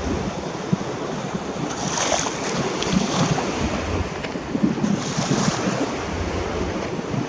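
Sea water rushing and splashing along a moving boat's hull, with wind buffeting the microphone; the splashing swells louder about two seconds in and again about five seconds in.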